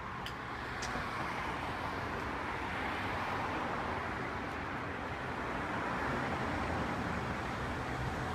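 Street traffic: a steady wash of passing-car noise that swells a little during the first second and then holds.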